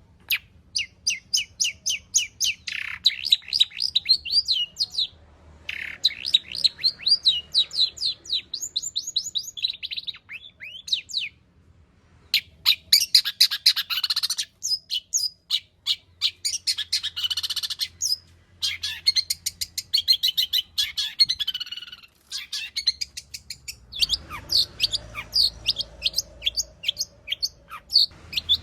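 Long-tailed shrike singing a fast, varied chattering song packed with mimicked notes, in bouts of rapid high chirps and trills broken by brief pauses.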